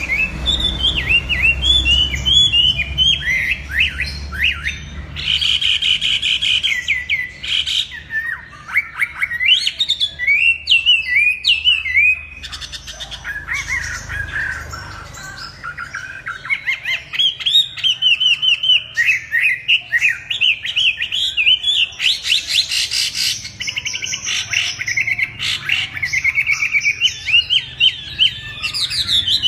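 Chinese hwamei (họa mi) singing a long, varied song of rapid whistled and twittering phrases, with a short quieter, sparser stretch about twelve seconds in.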